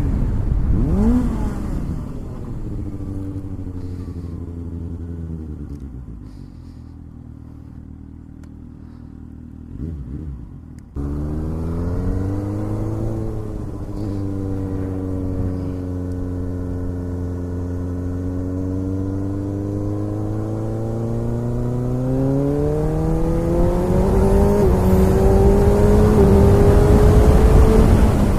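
Motorcycle engine running under way. Its pitch eases down and settles, then holds steady for a while, and climbs with rising revs and loudness toward the end. About 11 seconds in the sound changes abruptly.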